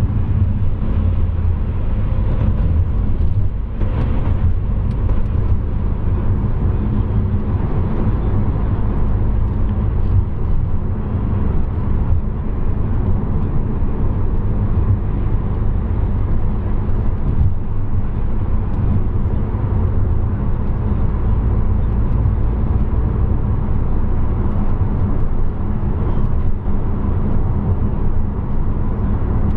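Car driving along at steady speed: a continuous low rumble of road and engine noise, with a faint steady hum over it.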